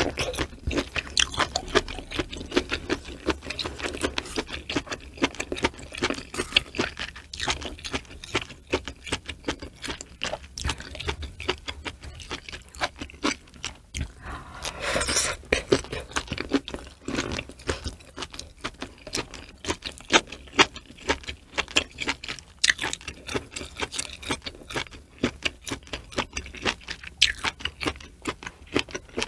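Close-miked chewing of cooked cow udder slices and vegetables from a hot pot, with many quick wet mouth clicks and smacks.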